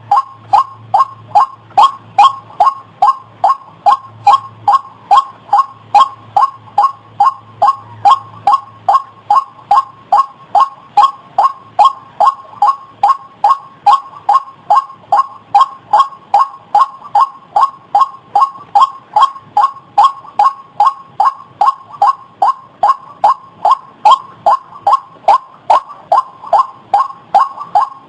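White-breasted waterhen calling: a quick, even string of loud calls, about two to three a second, kept up without a break.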